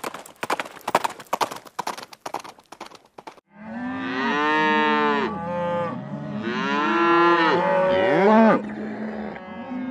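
Rapid, irregular clicking for the first three seconds or so, then cattle mooing: several long, overlapping moos that rise and fall in pitch until the end.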